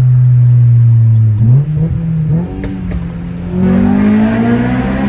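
Honda B16 four-cylinder engine in an EJ9 Civic running hard at steady high revs through a tunnel, with the window down. About a second and a half in the note breaks for a gear change and drops in loudness. Near the end it climbs in pitch again as the car accelerates.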